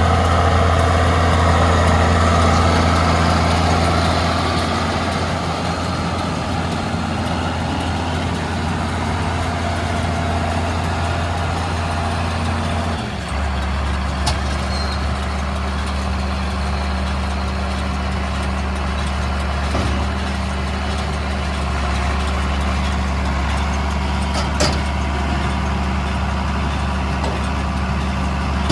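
John Deere 4430 tractor's six-cylinder diesel engine running steadily under load while baling hay. The engine note changes abruptly about 13 seconds in, with a few faint ticks later on.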